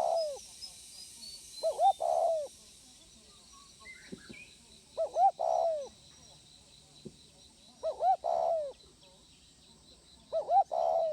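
Spotted dove cooing: a repeated phrase of two short coos followed by a longer wavering coo, given four times and a half about every three seconds. Faint high chirping of other small birds sits behind it.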